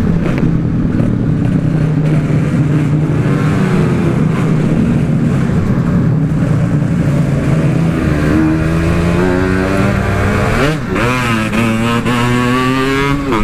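Two-stroke Yamaha RX King motorcycle engine running under way with an aftermarket packing-power muffler. It holds a steady note at first, then pulls up through the revs in the second half, with a short drop and a quick rise in pitch twice near the end as it shifts gear and accelerates.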